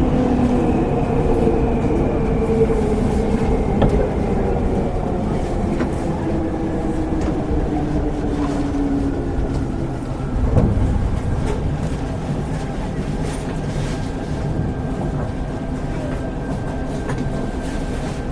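Running sound inside a Seibu 101-series electric train car, heard from the motor car. The traction motors' whine falls in pitch as the train slows. Wheels click over rail joints, with a louder knock about ten seconds in, and a faint steady high tone comes in during the second half.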